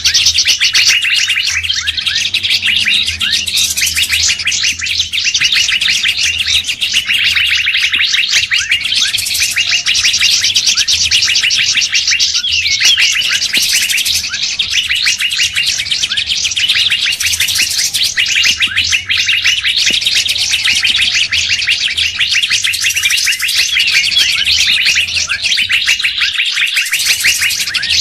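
Dense, unbroken chatter of many songbirds calling over one another: rapid chirps, trills and short whistles, a bird-luring (pikat) recording.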